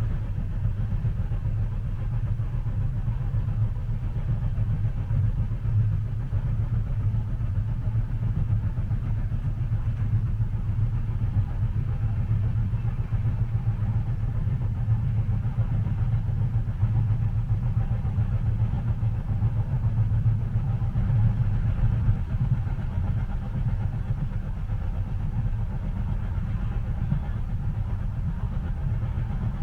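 Steady low rumble of a train in motion heard from inside a passenger car, continuous and even with no distinct clacks or other events.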